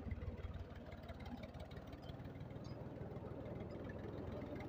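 An engine idling steadily with a fast, even low pulsing.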